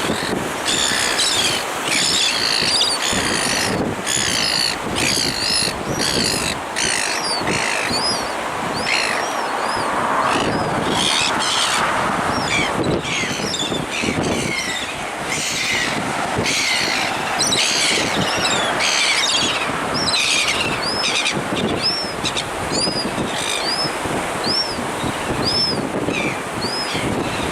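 Small birds chirping and twittering over a steady rush of wind and surf. In the second half, one bird repeats a short rising-and-falling chirp about once a second.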